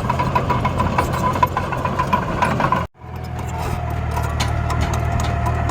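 Steady engine-like drone with scattered rattling clicks from miniature construction machines working soil and stone. The sound cuts out for an instant about three seconds in, then resumes with a slightly different tone.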